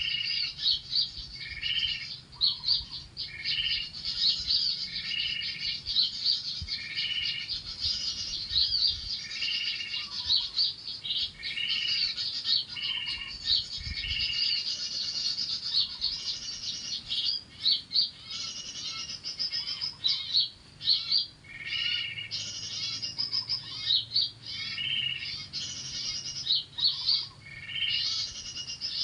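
Bar-winged prinias (ciblek) calling: a short call repeated about once a second over a dense, high chattering of small birds.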